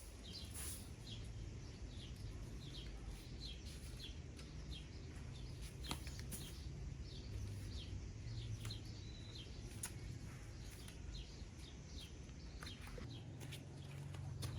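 Small birds chirping repeatedly, short high chirps several times a second, over a steady low rumble, with a couple of faint clicks.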